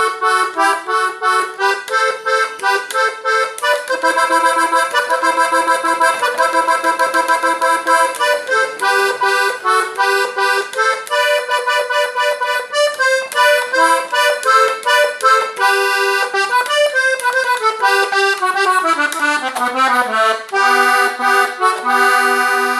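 Button accordion playing a lively melody with chords, the notes changing quickly, and ending on a long held chord.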